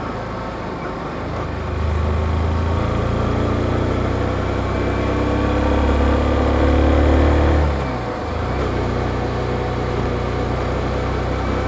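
Yamaha XSR155's single-cylinder engine through its stock exhaust, heard while riding. The engine pulls harder and louder from about two seconds in, drops off with a brief dip in pitch near eight seconds, then runs steady again.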